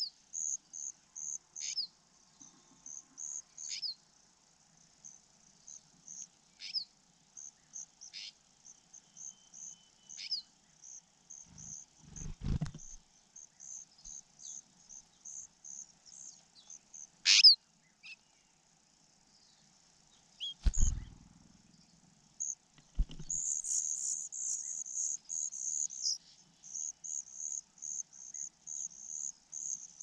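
Steady, rhythmic, high-pitched chirping, two or three pulses a second, growing denser near the end. Short downward-sliding bird calls come every couple of seconds, and one sharp, louder call comes about 17 seconds in. There are three dull low thumps.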